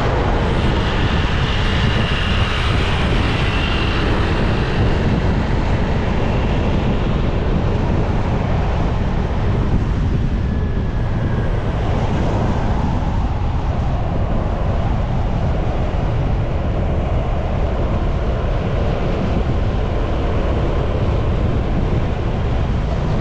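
Steady wind buffeting on the microphone, mixed with the running noise of a moving motorcycle.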